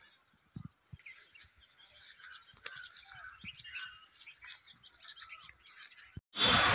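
Small birds chirping and calling, many short chirps and brief pitch glides. Near the end a loud, even rushing noise cuts in abruptly.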